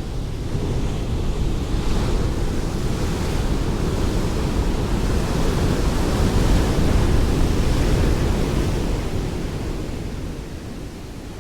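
Ocean waves breaking on a shore: one long swell of surf rushing in, holding for several seconds and then fading as it draws back.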